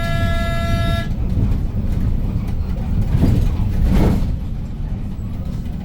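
Hyundai New Super Aerocity city bus's C6AF CNG engine running with a steady low rumble. A vehicle horn sounds one steady tone and cuts off about a second in, and a brief louder rush follows near the middle.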